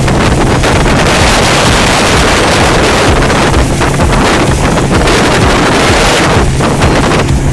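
Wind buffeting the microphone on a Neptun 500 motorboat running under way, with water rushing past the hull and a steady low engine hum underneath.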